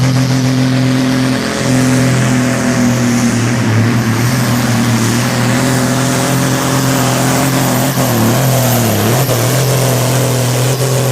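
Super Sport pulling tractor's engine running loud at full power, its pitch held steady with a brief sag and recovery about eight seconds in.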